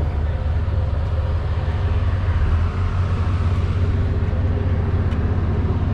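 A car engine idling steadily close by, a low, even pulsing rumble.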